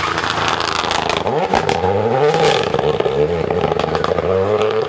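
Rally car engine revving hard through a corner, its pitch rising and falling several times as the driver lifts off and accelerates, with sharp pops and crackles.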